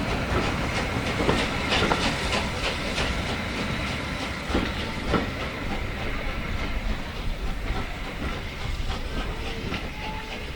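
Steam train running on the line, its wheels clicking over the rail joints in a rapid, uneven clatter, with a steady hiss of steam; it grows slowly fainter.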